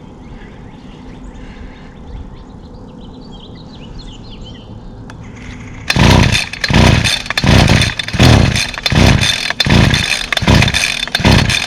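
A string trimmer's small two-stroke engine is pull-started over and over: eight loud sputtering bursts come about two-thirds of a second apart, after a quieter stretch. It fires on each pull but does not keep running, because it has no working primer.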